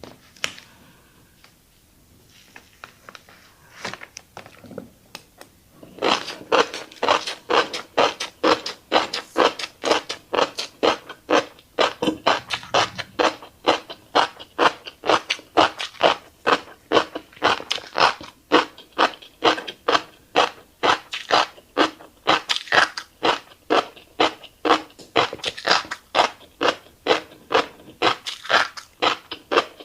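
Close-miked chewing of a mouthful of fish roe: steady, rhythmic wet chewing at about three strokes a second, starting about six seconds in after a few soft mouth and utensil clicks.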